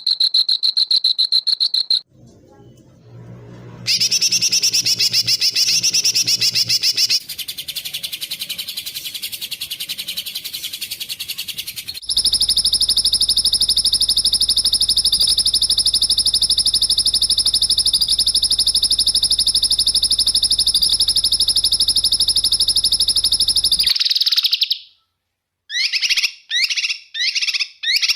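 Edited run of songbird and insect-like calls: a high buzzing pulsed trill, a quiet gap, a stretch of rapid chattering, then one long steady high-pitched trill of about twelve seconds that cuts off suddenly, followed by a string of short sharp bird calls near the end.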